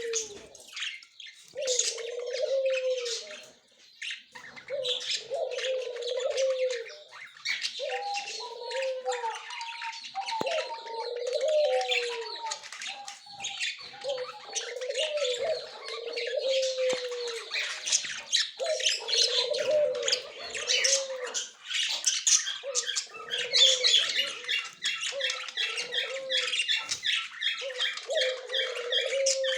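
Budgerigars chattering and warbling: a dense, unbroken run of quick high chirps and squawks. Under it, a lower arched call repeats every second or two.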